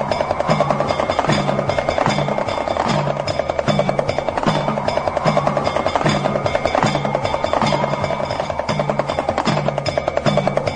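Damru, the small two-headed hourglass drum, rattled in a fast, even roll. Under it a low note repeats steadily, and higher tones slowly glide up and down.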